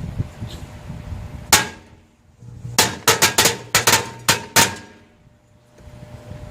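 A string of firecrackers going off inside a microwave oven: one sharp bang, then a rapid run of about ten more bangs over about two seconds.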